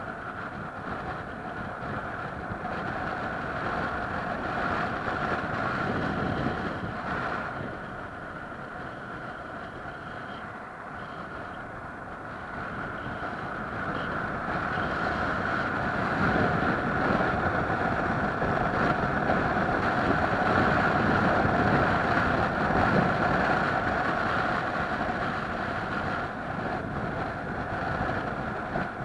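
A moving vehicle's engine running steadily, a constant droning whine over rumbling noise, dropping back for a few seconds about a third of the way in and then growing louder.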